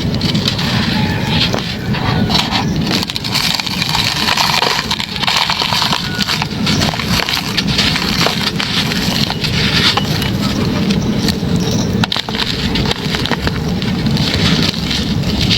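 Hard, dry moulded chunks being crushed and crumbled, with continuous crunching and crackling full of sharp snaps.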